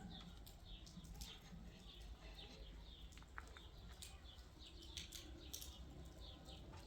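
Faint chirping of small birds, many short calls a second, over a low steady background hum.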